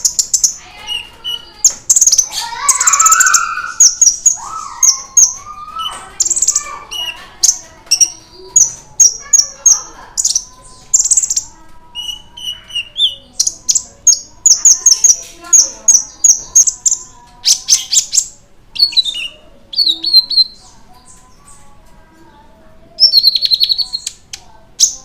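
Konin (kolibri ninja) sunbird in lively song: rapid runs of sharp, high-pitched chirps and twittering trills, with a brief lull near the end.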